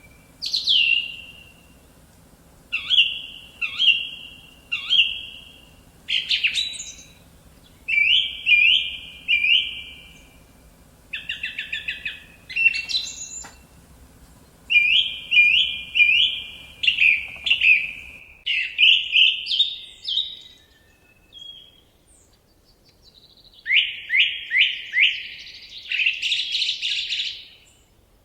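Forest songbirds singing: short phrases of three or four quick down-slurred chirps, repeated every second or two with brief pauses. A faint steady low hum underneath stops about eighteen seconds in.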